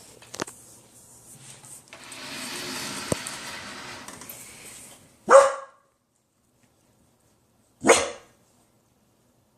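A puppy making two short, loud, sharp sounds about two and a half seconds apart, after a stretch of soft rustling.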